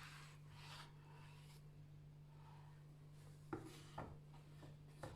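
Faint knife work on a cutting board: a soft scraping rub in the first second or so, then a few sharp knocks about half a second apart in the last two seconds.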